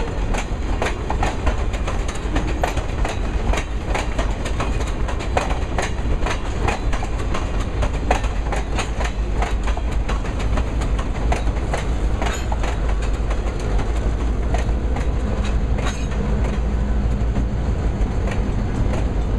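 A long string of railroad hopper cars rolling slowly past, the wheels clicking over the rail joints in a steady run of clacks. Near the end the pushing EMD GP38-2 diesel locomotive comes past close, and its engine adds a steady low hum.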